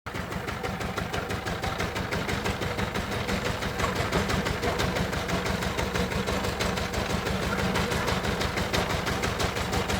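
Diesel engine running steadily with a rapid, even beat.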